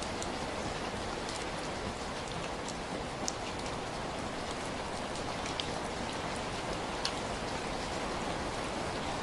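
Steady heavy rain falling, a dense even hiss with scattered individual drops ticking sharply, one of the sharpest about three seconds in and another about seven seconds in.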